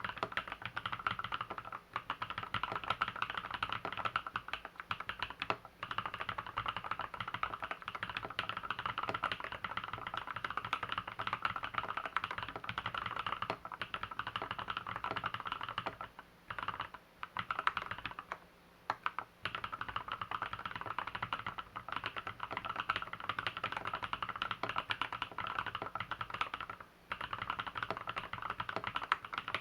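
Fast, continuous typing on an LZ B7 custom mechanical keyboard, a dense run of keystroke clacks with a few brief pauses past the middle and again near the end.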